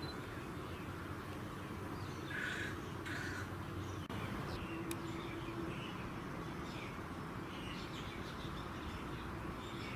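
A bird calls twice, about a second apart, followed by fainter scattered bird calls, over steady background noise.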